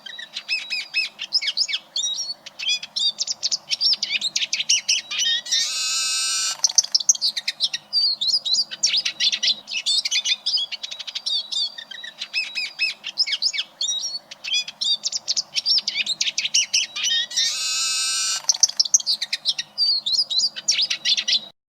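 Eurasian siskin singing: a fast, continuous twittering run with two long held notes of about a second each, spaced about 12 seconds apart. The song cuts off suddenly just before the end.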